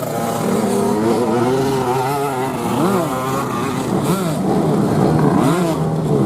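Several racing dirt-bike engines revving on the track, their pitch repeatedly falling and climbing again as the riders work the throttle and shift.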